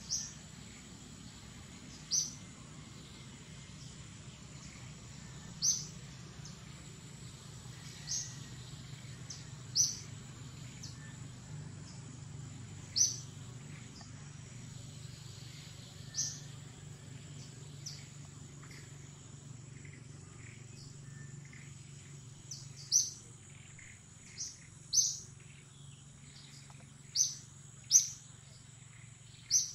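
A bird calling outdoors in short, sharp high chirps every two to three seconds, coming faster near the end, over a steady high whine.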